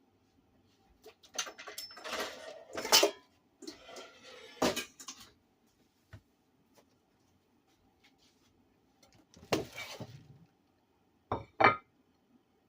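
Kitchen utensils clinking and scraping against dishes in several short bursts, with two sharp clinks close together near the end.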